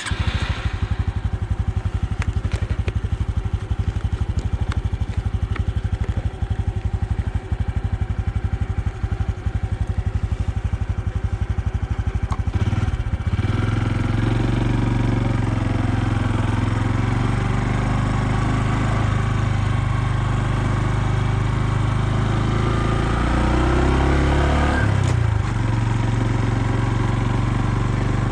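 2020 Honda Super Cub's 125cc single-cylinder engine running with a steady pulsing note. About halfway through the note changes and grows stronger, as if the bike moves off under load, and the pitch rises and falls briefly near the end.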